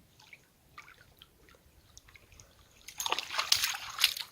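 Faint drips and lapping of lake water at the shore. About three seconds in, a louder dense run of crackling clicks begins.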